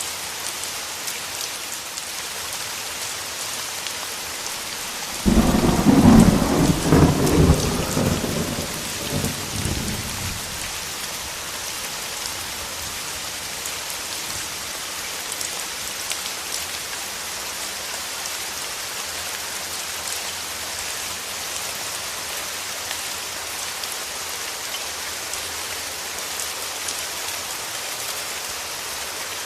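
Steady rain hiss of a thunderstorm. About five seconds in, a sudden clap of thunder breaks in, loud for a few seconds and rumbling away over the next few.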